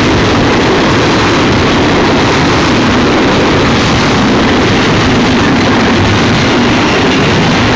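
Double-stack container train's well cars rolling past close by: a loud, steady noise of steel wheels running on the rails.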